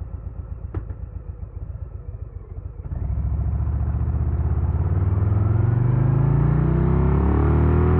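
2022 Harley-Davidson Low Rider S's Milwaukee-Eight 117 V-twin idling with an uneven, pulsing lope. About three seconds in it pulls away under throttle, and the revs climb steadily.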